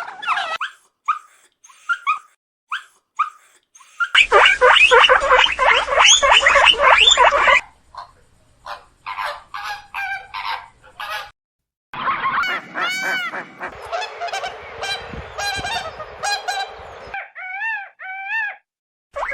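Birds calling with loud honks, in several short clips cut together. The loudest part, a dense chorus of many birds, runs from about 4 to 7.5 seconds in, and later clips hold single calls that rise and fall in pitch.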